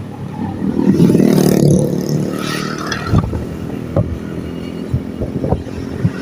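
A motor vehicle's engine running close by and revving up about a second in, then settling, with some clatter and knocks over it.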